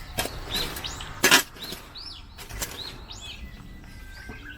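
Birds chirping repeatedly in the background, with a few short rustling, scraping noises from clearing soil and debris out of a garden bed. The loudest scrape comes about a second in.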